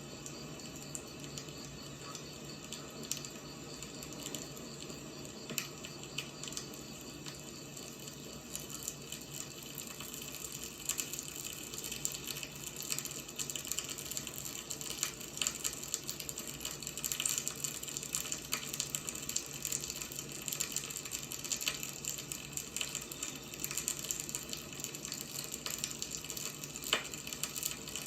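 Wood fire crackling: a steady hiss with many small sharp pops and snaps at irregular intervals, the pops getting busier from about ten seconds in.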